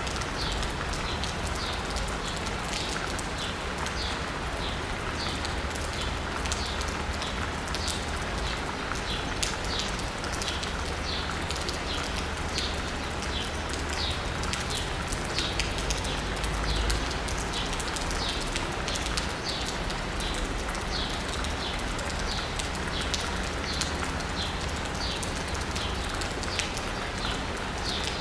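Steady rain pattering on asphalt and a roof, with a small bird chirping over it again and again, about one short call a second. Under it is a low city traffic rumble that swells briefly a little past halfway.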